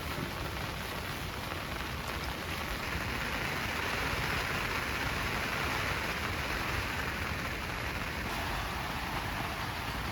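Steady rain drumming on a tent, swelling a little louder for a few seconds mid-way, then easing back.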